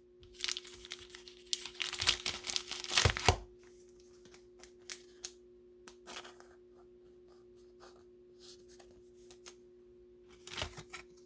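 Crinkling and tearing of a plastic cello-pack wrapper being handled for about three seconds, then a few faint handling ticks and a short crinkle near the end, over a faint steady hum.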